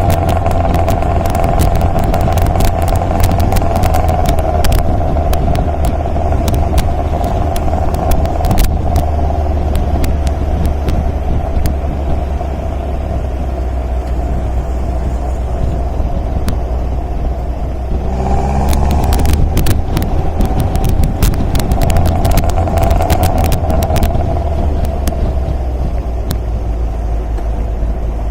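MG MGA roadster's four-cylinder engine running steadily while driving, with many short sharp clicks over it. The engine note breaks and shifts briefly about two-thirds of the way through, then settles again.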